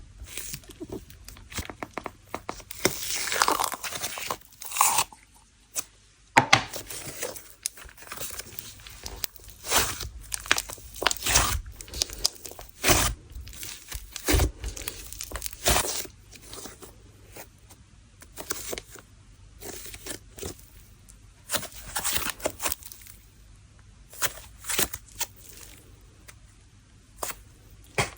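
Jelly cream slime being squished and pulled by hand, with irregular sticky pops and crackles.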